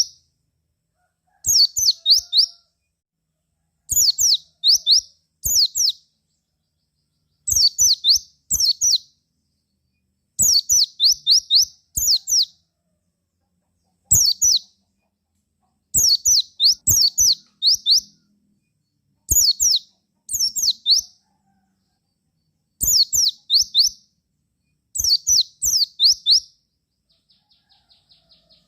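White-eye (pleci) singing: short bursts of rapid, high, descending notes, repeated in groups every second or two. Near the end a fainter, fast, even ticking trill starts.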